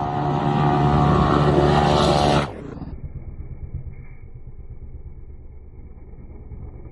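A motor vehicle's engine runs loud under throttle, its pitch climbing slightly. About two and a half seconds in it drops abruptly to a much quieter, steady low rumble.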